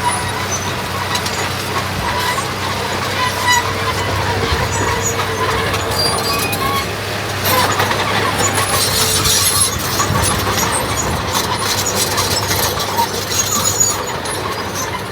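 Diesel engine of heavy earthmoving machinery running steadily with a low hum. A louder rushing, clattering stretch comes from about 7.5 to 10 seconds in, with scattered high squeaks throughout.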